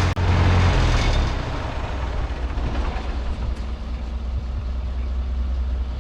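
Ford 8N tractor's four-cylinder flathead engine running steadily while flush water circulates through its cooling system. About a second in it drops to a quieter, lower idle.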